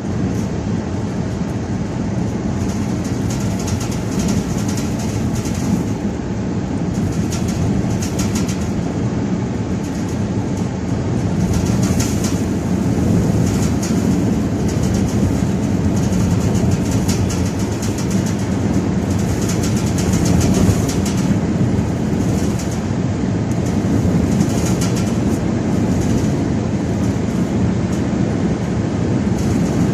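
Steady rumbling travel noise of a moving vehicle, with wind rushing past that swells now and then.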